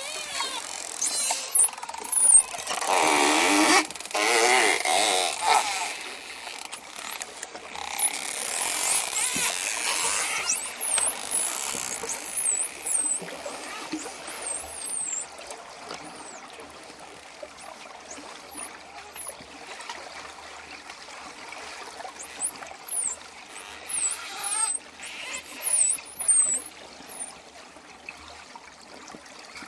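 Dolphins calling: many short, high whistles that sweep downward, repeated throughout, with a louder burst of buzzy squawking calls and clicks about three to five seconds in, over steady water noise.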